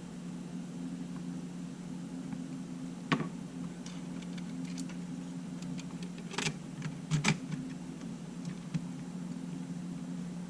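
A steady low hum with a scattered series of small sharp clicks and taps, the loudest a close pair about seven seconds in, like small parts or a device being handled on a workbench.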